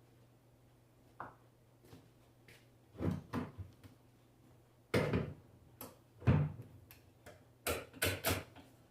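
Scattered knocks and clatters of objects being handled on a workbench, a single knock about a second in and clusters around three, five, six and eight seconds in, over a faint steady low hum.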